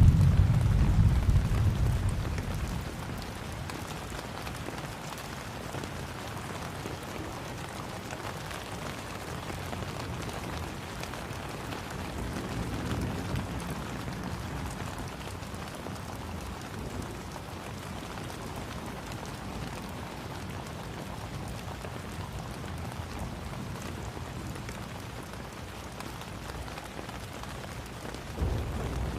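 Steady rain falling on a surface, an even hiss. A loud low rumble fades out over the first two to three seconds, and another low rumble starts suddenly near the end.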